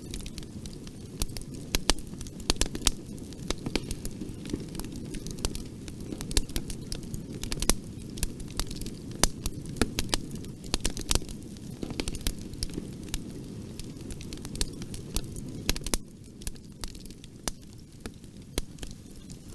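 Wood fire crackling in a fireplace: frequent sharp pops and snaps, irregularly spaced, over a steady low rumble of the flames, which eases a little near the end.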